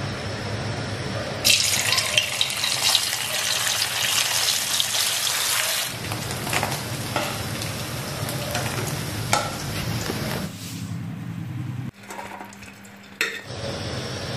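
Paneer cubes going into hot oil in an iron kadai and sizzling, loud from about a second and a half in; after about six seconds the frying softens, with scattered crackles, and it goes quieter near the end.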